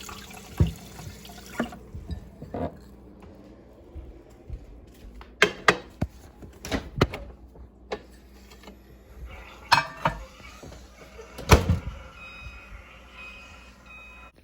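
Kitchen clatter while making coffee and breakfast: a string of sharp knocks and clinks of dishes and utensils over water noise, with a few short high beeps near the end.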